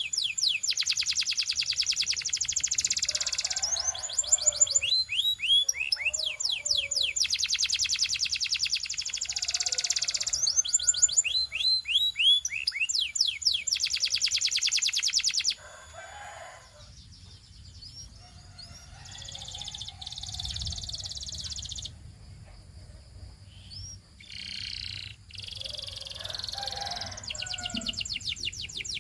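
Domestic canary singing: long, fast trills of rapidly repeated notes alternating with runs of separate downward-sweeping notes. About halfway through the song turns fainter, with shorter, softer phrases and gaps between them.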